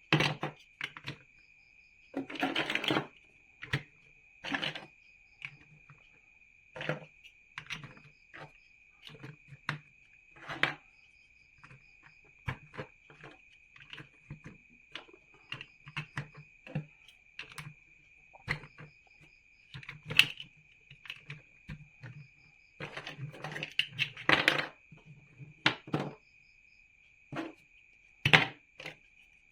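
Plastic building bricks clicking, snapping and rattling as they are handled and pressed together, in irregular clicks and short flurries, over a steady high-pitched background tone.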